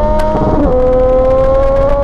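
Triumph motorcycle engine running under way. Its note steps down about two-thirds of a second in, then climbs slowly.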